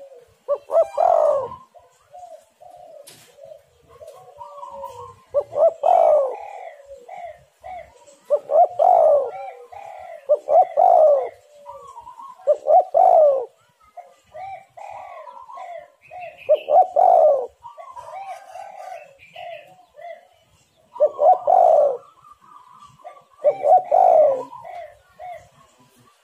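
Spotted doves cooing, with loud coo phrases every two to four seconds and many softer, shorter bird calls between them.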